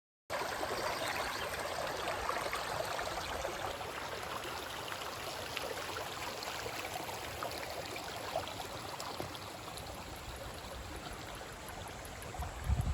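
Mountain stream flowing over rocks: a steady rush of water, with a few low bumps near the end.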